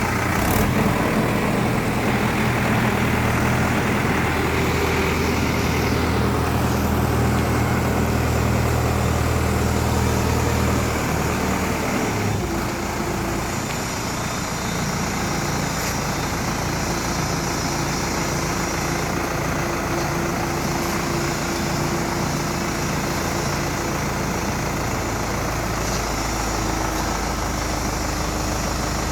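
Tractor engine running steadily, powering a hydraulic piling machine; about 11 seconds in its note drops and it runs a little quieter.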